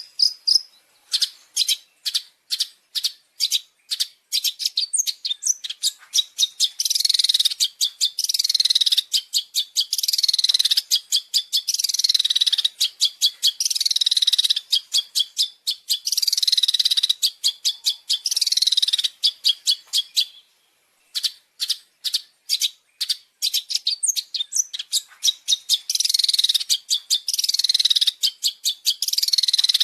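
Recorded birdsong from a long-tailed shrike (cendet) training track. It opens with a fast run of short, sharp notes, then turns into repeated harsh phrases that fall in pitch, one about every two seconds. There is a brief break about two-thirds through, then quick notes again and the falling phrases return.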